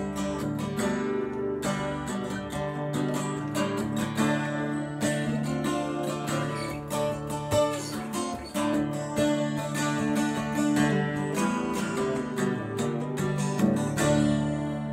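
Strummed acoustic guitar playing an instrumental outro to a song.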